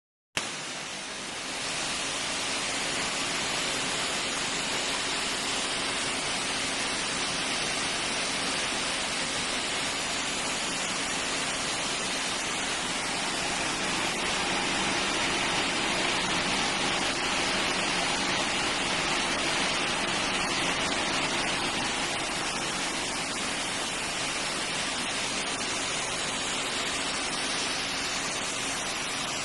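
Roasted hazelnut skin-peeling machine running: a steady rushing noise with a faint hum underneath, starting abruptly right at the beginning.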